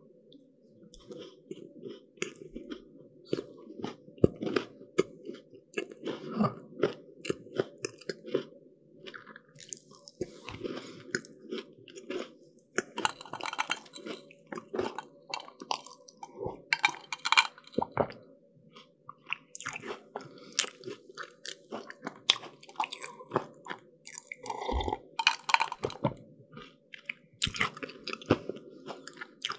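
Close-miked chewing and crunching of flaky, crisp pastry, with irregular crackles and occasional louder bites.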